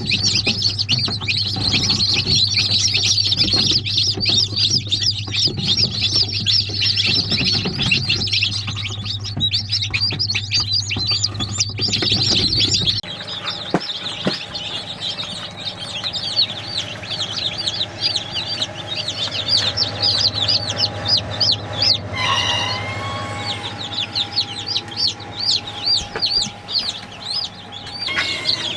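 A flock of young chicks peeping continuously in rapid, high chirps, with one lower adult chicken call about two-thirds of the way in. A steady low hum underneath stops about halfway.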